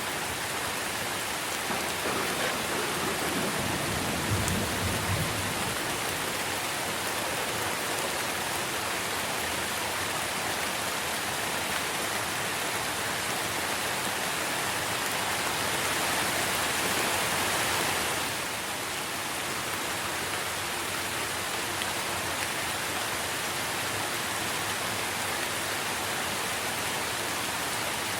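Steady rain pattering on trees and leaves, with a short low rumble of thunder about four seconds in. The rain gets louder and brighter for a couple of seconds past the middle, then drops back suddenly.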